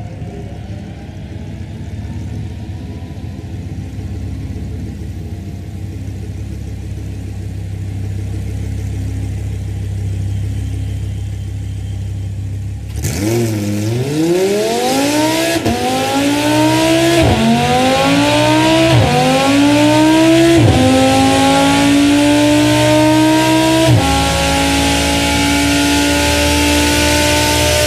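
Audi R8 engine accelerating hard through the gears on dynamometer rollers. Its pitch climbs and drops back sharply at about five upshifts, and it grows louder. For the first half there is only a low steady drone.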